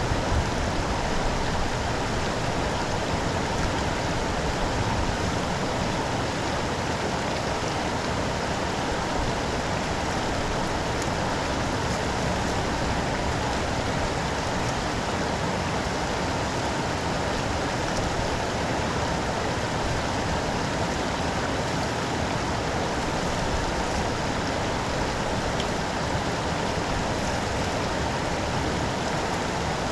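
Steady rain and running floodwater, an even rushing hiss with no breaks.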